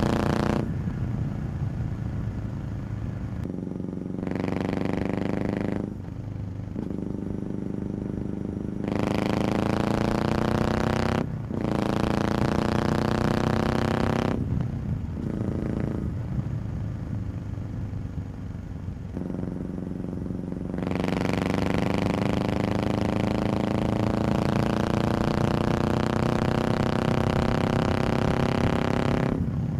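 Motorcycle engine pulling under acceleration, its pitch rising steadily through each stretch. The sound is several short takes cut together, with abrupt changes every few seconds.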